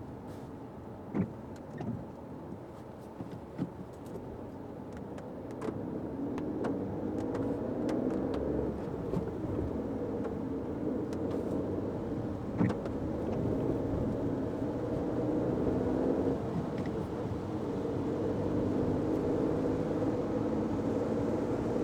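Fiat 500X driving on wet roads, heard from inside the car: a steady engine and tyre noise that gets louder about six seconds in as the car picks up speed. A few sharp knocks come through along the way, the loudest about a second in and again near the middle.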